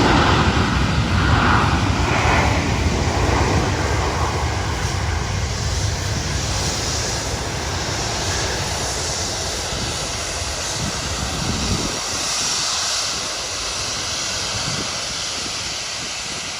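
Airliner engine noise, a dense rushing roar that is loudest at the start and slowly fades as the plane moves away. Its deep rumble drops out about twelve seconds in.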